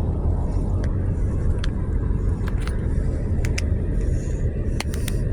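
Steady low rumble of a car's engine and road noise heard from inside the cabin, with a few faint light clicks.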